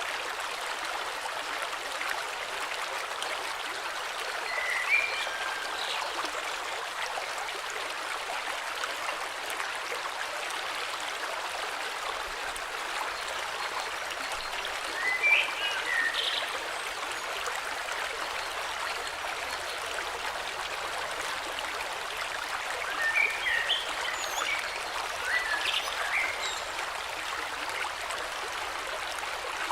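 A river flowing steadily, with short bursts of birdsong chirps about five seconds in, again around fifteen seconds, and several more from about twenty-three to twenty-six seconds.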